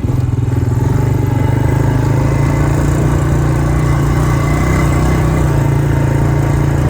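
A four-wheeler (ATV) engine running steadily at a constant throttle while towing sleds through snow.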